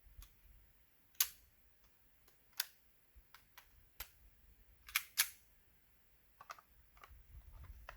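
Scattered sharp clicks and crunches, roughly one every second or so and unevenly spaced, from a person walking over rocky ground while holding the camera.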